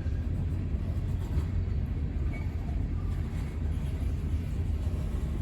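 Freight train cars rolling slowly past, a steady low rumble.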